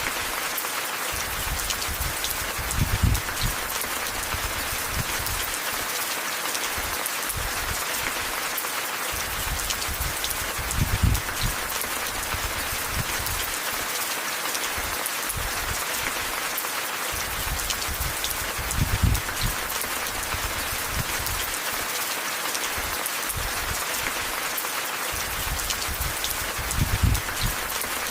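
Steady rain falling, an even dense hiss. A short low rumble swells in about every eight seconds.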